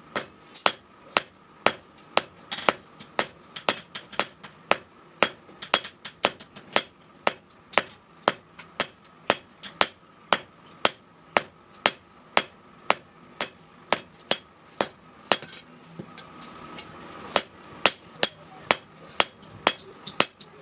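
Blacksmith's hammer striking steel on an anvil in a steady run of ringing blows, about two to three a second, with a brief noisier stretch of fewer blows past the middle.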